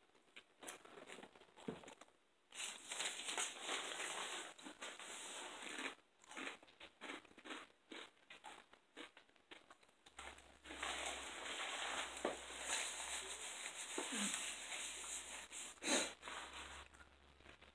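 Close-miked chewing and crunching of food, crunchy tortilla chips among it, in two long stretches of dense crackling mouth noise, with one sharp, louder crunch near the end.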